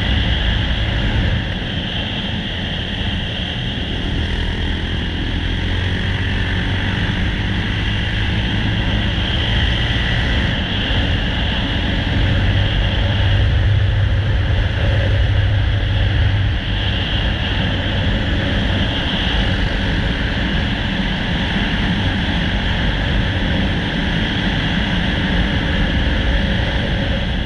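Yamaha XT600's air-cooled single-cylinder four-stroke engine running as the supermoto is ridden, with steady wind rush over the microphone. The engine gets louder for a few seconds around the middle.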